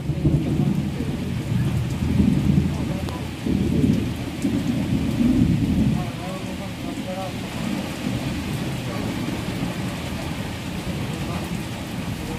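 Heavy rain pouring down. It comes with a low rumble that surges for the first half and fades out about six seconds in, leaving a steady rain hiss.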